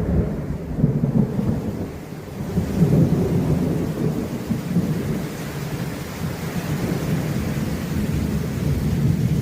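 Thunder rumbling through steady rain during a storm, swelling about a second in and again around three seconds in.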